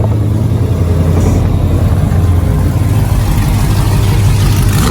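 Car engine running loud through its exhaust: a deep, steady low rumble that swells slightly toward the end.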